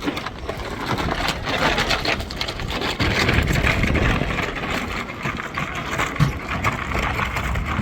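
Motorboat engine running steadily under a rushing noise; the sound cuts off abruptly near the end.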